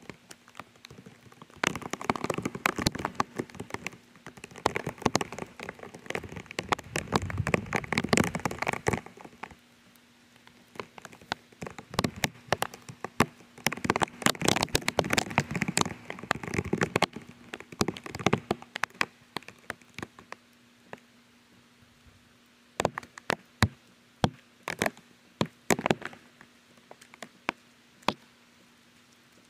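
Rain pattering with sharp clicking drops, mixed with bare feet squelching through wet mud. The sound is busiest in two spells, then thins to a few loud scattered drops near the end.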